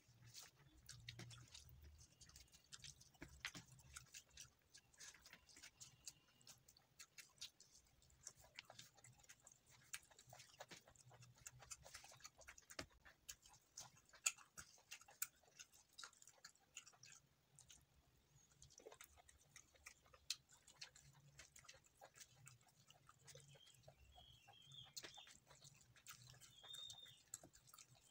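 Faint close-up eating sounds of chicken and rice being chewed, made up of many small, irregular mouth clicks and smacks.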